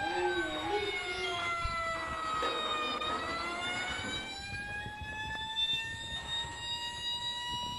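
Siren wailing in one slow cycle: its pitch falls over about three seconds, then climbs back up.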